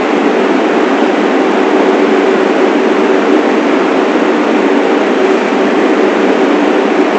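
New York City subway train running at a steady speed: a loud, even rail noise with a steady hum running through it.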